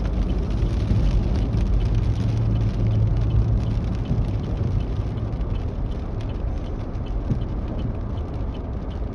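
Car running on the road, heard from inside the cabin: a steady low rumble of engine and road noise, with the engine hum a little stronger a few seconds in.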